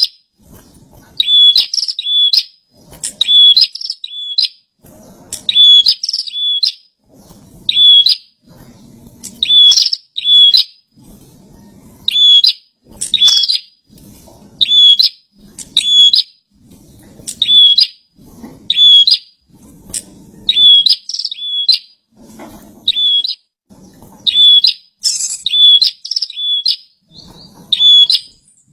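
Prenjak (prinia) singing steadily, in repeated short bursts of a few sharp, high chirping notes about every second and a half.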